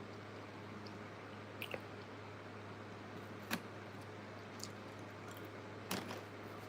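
Close-miked eating: a handful of sharp, crisp clicks of biting and chewing, spaced a second or so apart, over a faint steady low hum.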